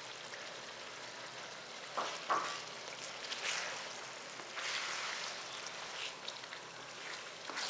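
Chicken and tomatoes sizzling steadily in hot oil while a plastic spoon stirs through them, with a couple of light knocks about two seconds in.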